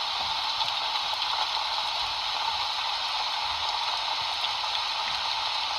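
A steady, even rushing hiss, with no voice or music.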